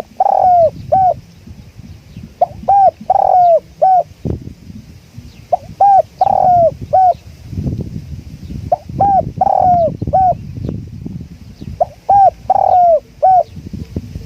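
Spotted dove cooing: five three-note coo phrases, each a short note, a longer middle note and a short note, repeating about every three seconds. Wind rumbles on the microphone underneath.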